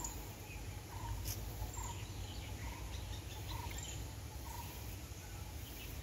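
A bird calling repeatedly, one short note roughly once a second, over a low steady rumble.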